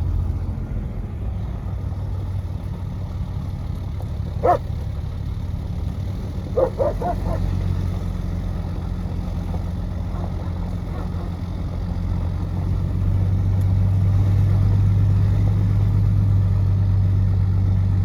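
A vehicle engine running steadily, with a dog barking once about four seconds in and then a quick run of three or four barks a couple of seconds later.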